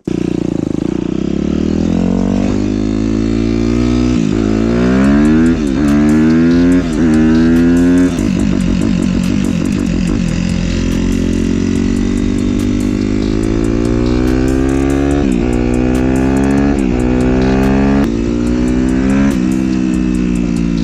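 Suzuki RM-Z250's single-cylinder four-stroke engine under way on the road, its pitch climbing through the gears with a sharp drop at each upshift. Several quick shifts come in the first eight seconds, then it runs at a steadier speed with a few more shifts later on.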